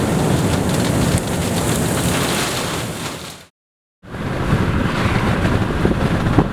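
Wind rushing and buffeting across the microphone over a low rumble. A little past halfway it fades out to dead silence for about half a second, then comes back.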